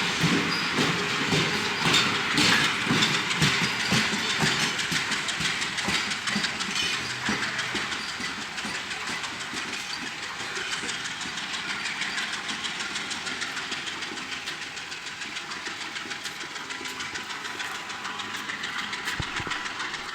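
Passenger train's wheels clattering over the rails, heard from aboard with wind noise on the microphone. The clatter slowly grows quieter, and a thin steady whine comes in during the second half.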